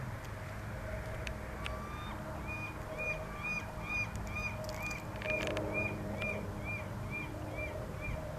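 Gull calling: a run of a dozen or so short, arched calls, roughly two to three a second, starting a couple of seconds in and stopping near the end, over a steady low hum.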